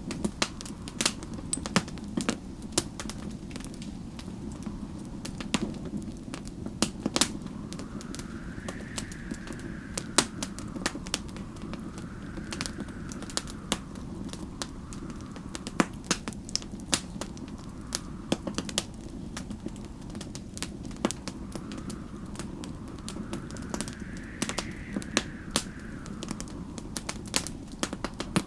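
Wood fire crackling with frequent sharp pops over a steady low rumble, while snowstorm wind howls in slow rising and falling gusts.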